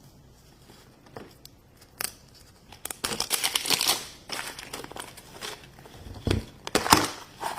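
Plastic toy packaging being crinkled and torn open, with scattered clicks and a low knock about six seconds in; quiet for the first two seconds.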